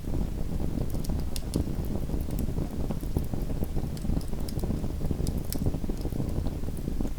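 Small wood fire in a fireplace burning with a steady low rumble, with frequent short, sharp crackles and pops scattered throughout.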